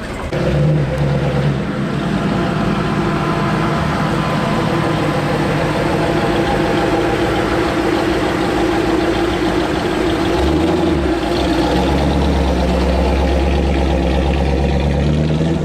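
A vehicle engine running steadily, with a deep low hum that grows stronger about ten seconds in.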